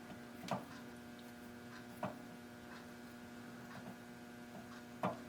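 Steady faint machine hum with a few sharp clicks, three louder ones spread out irregularly, as a milling machine is worked by hand.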